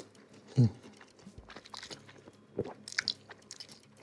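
Close-up mouth sounds of a person eating seblak, a spicy dish of krupuk crackers, instant noodles, meatballs and sausage: chewing with small irregular crunches and clicks. A brief vocal sound comes about half a second in.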